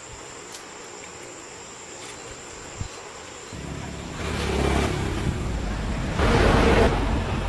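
A car engine starts running about halfway through with a low, steady note and surges louder twice.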